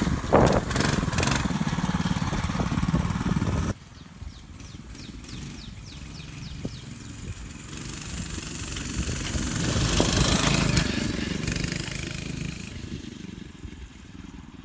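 Mini bike's 6.5 HP single-cylinder engine running under load. It is loud and close at first, drops off abruptly about four seconds in, then grows louder as the bike passes by around ten seconds in and fades away as it rides off.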